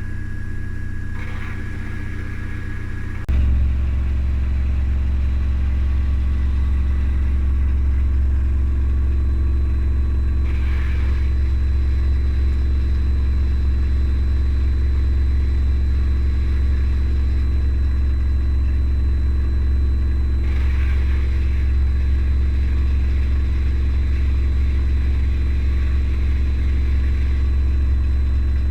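Haier HW80-B14979 front-loading washing machine spinning its drum at high speed in the final spin of the cycle, a steady, loud drone. About three seconds in, the drone steps up abruptly to a louder, heavier hum and then holds steady.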